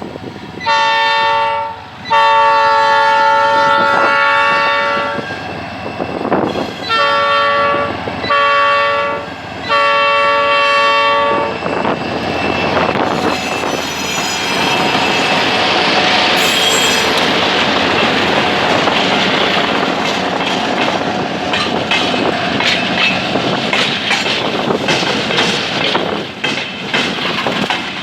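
Diesel freight locomotive horn sounding five blasts of a multi-note chord: short, long, short, short, long. The train then passes close by, its wheels clattering over the rail joints, with a brief high wheel squeal partway through.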